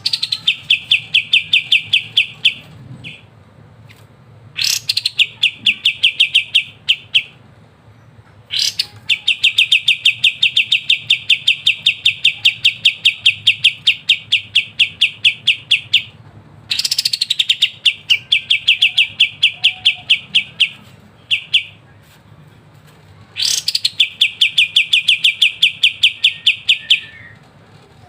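A kapas tembak, a caged Indonesian songbird, singing in repeated phrases. Each phrase opens with a sharp upward note and breaks into a long, crisp, machine-gun-fast high trill, the 'ngebren' delivery prized by bird-keepers. Five phrases come with short pauses between them, the longest lasting about seven seconds.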